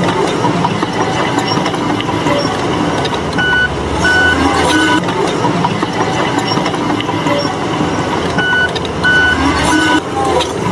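Heavy earthmoving machinery with its diesel engine running steadily, and a reversing alarm beeping in two short runs of about three beeps each.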